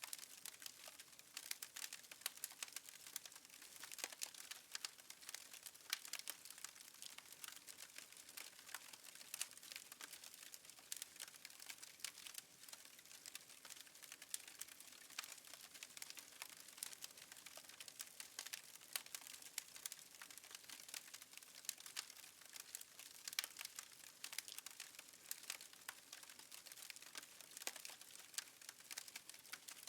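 Wood fire crackling faintly: a dense, irregular run of small pops and snaps over a soft hiss.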